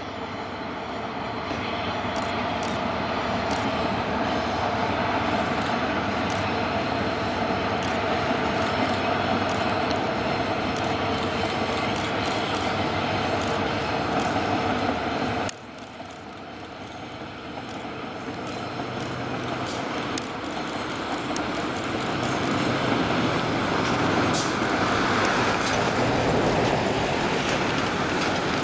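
Seven Stars in Kyushu cruise train, hauled by its DF200 diesel-electric locomotive, running along the track: a steady engine and rolling-stock rumble. It drops suddenly about fifteen seconds in, then grows steadily louder as the train approaches.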